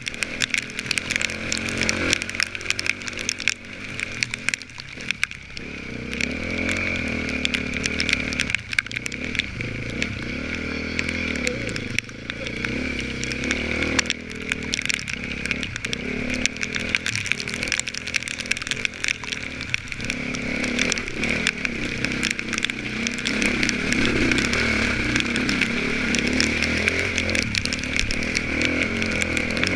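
Off-road dirt bike engine being ridden hard, revving up and down, its pitch rising and falling over and over.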